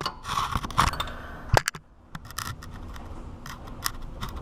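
Stubby wrench clinking and scraping against a power steering line fitting, with a sharp metal knock about one and a half seconds in, then scattered light clicks.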